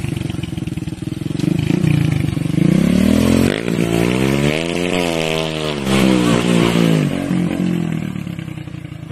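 Honda XRM underbone motorcycle's single-cylinder four-stroke engine, freshly tuned, revving and then pulling away hard. Its pitch climbs steeply and drops back about five seconds in, then the engine fades as the bike rides off.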